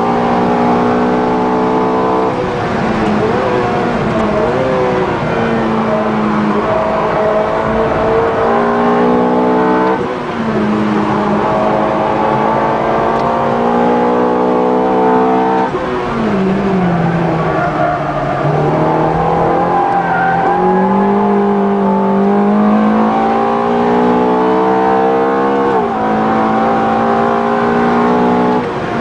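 Ferrari F430's 4.3-litre V8, heard from inside the cabin, accelerating hard through the gears: the note climbs steadily, then drops sharply at each upshift, several times over. About halfway through, the pitch sinks as the car slows, then climbs again under power.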